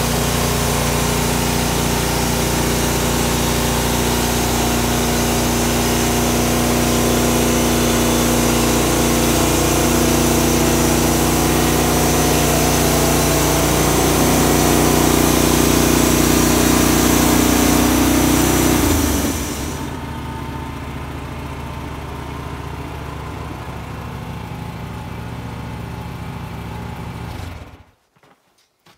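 Engine of a portable band sawmill running steadily at high speed, then dropping abruptly to a lower, quieter idle about two-thirds of the way in, and cutting off suddenly near the end.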